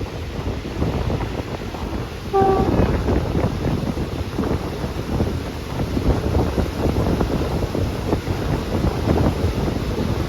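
Wind buffeting the microphone with a low rumble, and a short beep a little over two seconds in, after which the buffeting gets louder.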